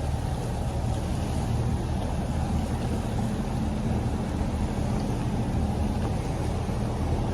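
Boat engine running steadily at slow speed, a low even hum.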